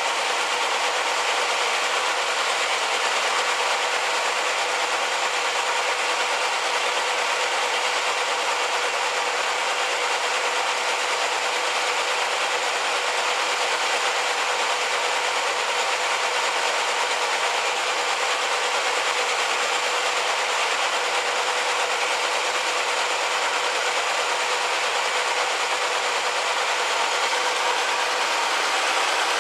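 1968 Chevrolet El Camino running with its air conditioning on during a refrigerant recharge: a steady whirring hiss from the engine bay that holds unchanged throughout, with a few faint steady tones in it.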